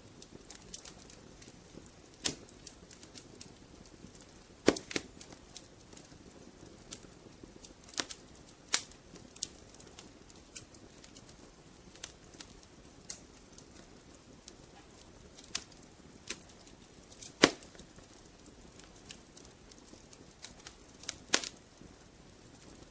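Wood fire crackling: sparse, irregular pops and snaps over a soft steady hiss, with a few sharper snaps standing out.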